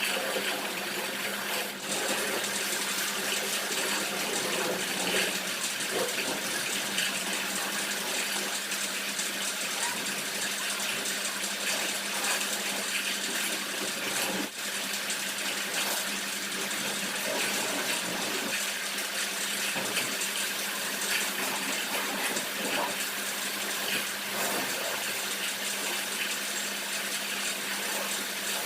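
High-pressure washer spraying water onto a car: a steady hiss of spray with a steady low hum underneath.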